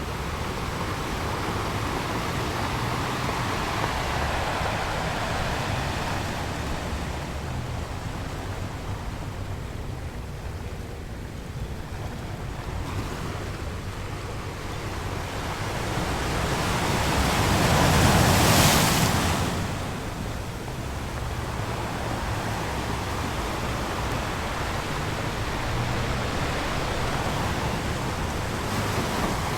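Ocean waves washing on a shore, a steady surf that swells and ebbs, with one bigger wave building to a crash about two-thirds of the way through and then receding.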